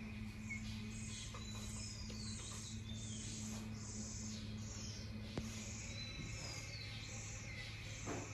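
Birds chirping outdoors: high calls repeated about twice a second, with a few short falling whistles, over a steady low hum.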